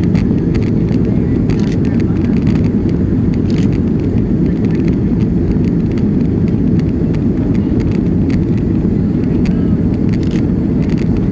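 Airliner cabin noise in flight: the steady low roar of the jet engines and rushing air, unchanging in level.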